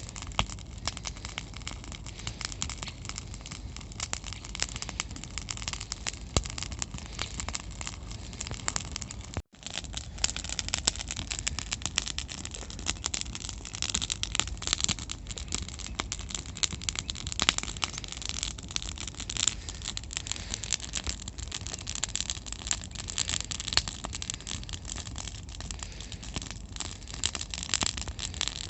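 Campfire crackling: a dense, irregular run of sharp snaps and pops over a low steady rumble, broken by a momentary gap about nine and a half seconds in.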